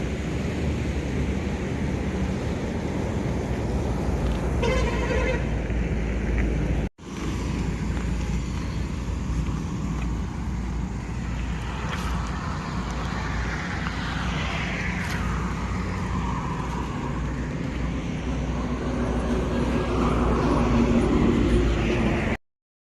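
Road and traffic noise with a steady low rumble, a vehicle horn sounding briefly about five seconds in. The sound drops out for a moment at about seven seconds, then the traffic noise carries on.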